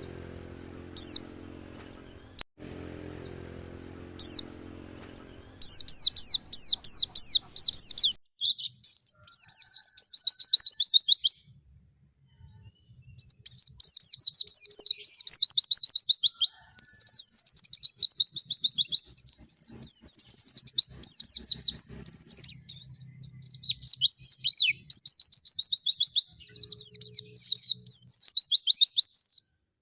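White-eye (pleci) singing a long, fast twittering song of rapid high notes strung into trills, starting about five seconds in, with one short pause a little before the middle. A low steady hum is heard before the song begins.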